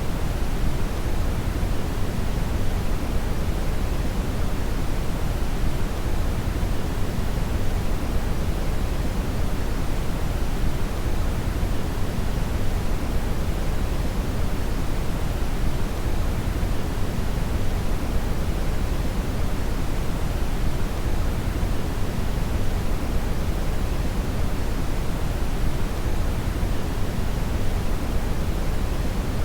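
Brown noise: a steady, even rumbling hiss, strongest in the low end and thinning out towards the treble, unchanging throughout.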